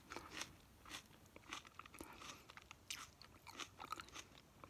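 Close-miked chewing: quiet, irregular crunches and mouth clicks, a few each second.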